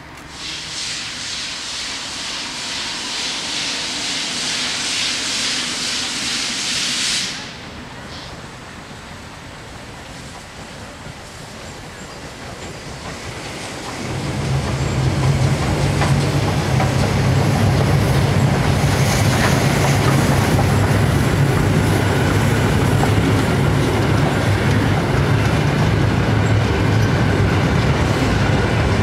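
Heritage passenger train at a level crossing: a loud hiss for the first seven seconds cuts off suddenly. From about halfway through, a loud low steady engine rumble sets in and the wheels clatter over the rails as old coaches pass.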